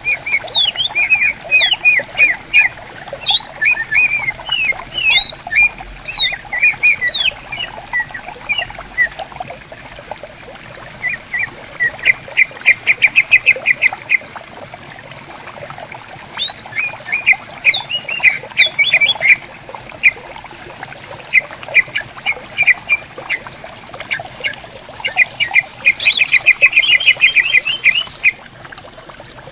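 Cucak ijo (greater green leafbird) singing: quick chattering runs of sharp whistled notes, broken by fast even trills about halfway through and again near the end, over the steady trickle of a gently flowing stream.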